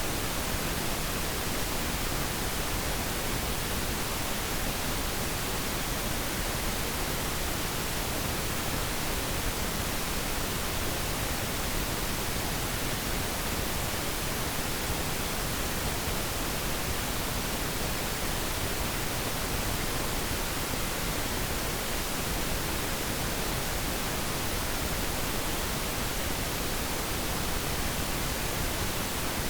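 Synthetic pink noise, a steady, even hiss spread across all pitches with less treble than white noise.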